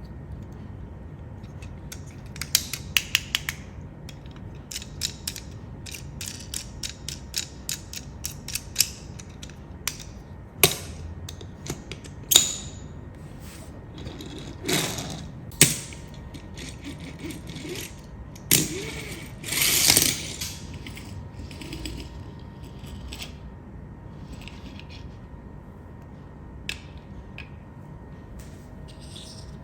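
Irregular clicking and rattling of a small mechanism or hard objects being handled, with a few louder swishing scrapes around the middle.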